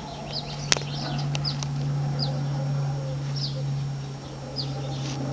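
Birds calling with short, falling chirps every half second or so, over a steady low hum, with one sharp click about a second in.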